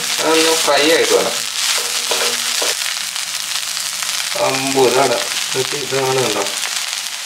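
Fish roe thoran sizzling as it dry-fries in a non-stick pan and is stirred with a wooden spatula. A voice is heard briefly near the start and again just past the middle.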